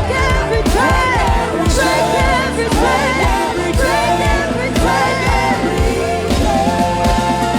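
Church praise-and-worship music: a singing voice over a band with a steady beat.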